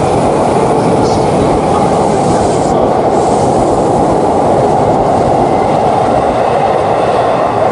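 Shinkansen train running: a steady, loud rolling noise of the train on the rails.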